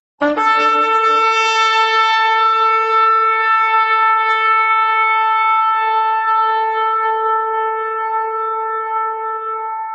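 Shofar sounded in one long held blast: it opens with a brief lower note that jumps up to a steady main pitch, which is held and begins to weaken near the end.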